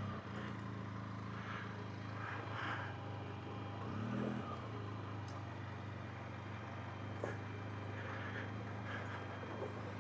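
Benelli TRK 502X parallel-twin motorcycle engine running at low, steady revs, with a brief rev about four seconds in.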